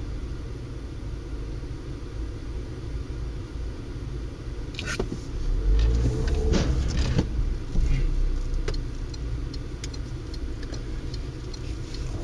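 A car driving with a steady low engine and road rumble. Several sharp knocks come about five to seven seconds in, with a louder rumbling stretch that eases off after about eight seconds, and then a row of faint, evenly spaced ticks near the end.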